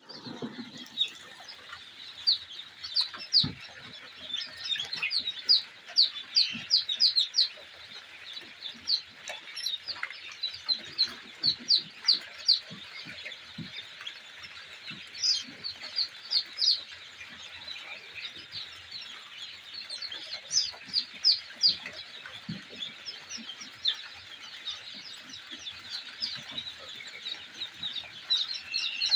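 A brood of day-old chicks peeping continuously: many short, high, downward-sliding peeps overlapping in a dense chorus.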